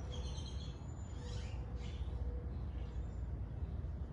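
Small birds chirping a few times in the first couple of seconds, over a steady low outdoor rumble.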